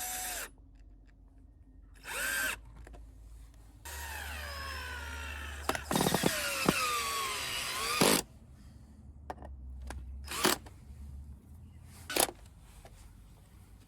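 Power drill driving screws into wood to fasten brackets to a raised flower bed. Several short trigger bursts, and one longer run of about four seconds starting about four seconds in, whose pitch sinks as the screw bites in.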